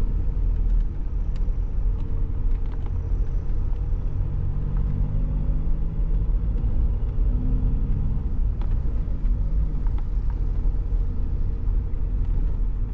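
Stage 2 tuned VW Polo diesel engine with full exhaust rumbling steadily under way, over road noise; the engine note climbs a little about a third of the way in, then eases back.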